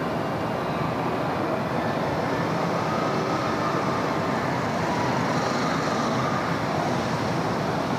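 City road traffic: a steady wash of car tyre and engine noise, swelling slightly about halfway through.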